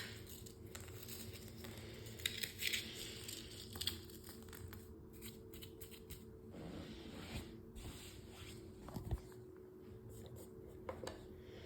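Crackers being crushed: faint, irregular crunching and crackling in short clusters, over a low steady hum.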